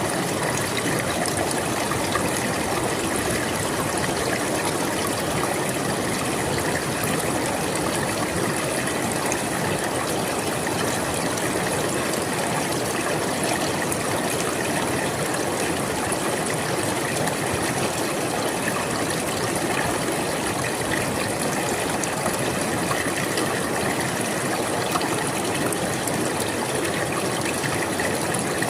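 A river flowing steadily: constant rushing and trickling water.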